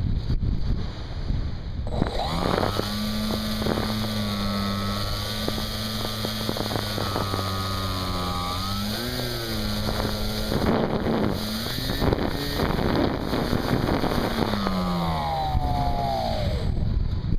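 R/C airplane's motor and propeller heard from the onboard camera: wind noise on the microphone, then about two seconds in the motor throttles up to a steady drone that swings in pitch a few times, and near the end it falls in pitch and cuts off as the throttle is pulled back.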